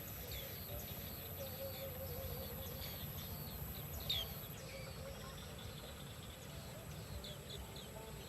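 Small birds chirping with many short, high calls, one louder call about four seconds in.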